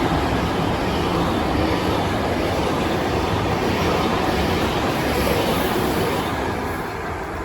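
Freight train passing close by: a steady rumble of wheels on the rails that starts to fade about six seconds in as the train moves away.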